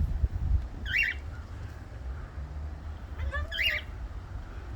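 Two short parrot calls: a brief high chirp about a second in, then a longer call of several quick notes about three and a half seconds in, over a steady low rumble.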